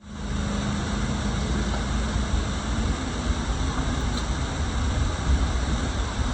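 Yamaha YZF-R7's 689 cc parallel-twin engine idling steadily through an aftermarket Akrapovič exhaust, with a low, even exhaust note.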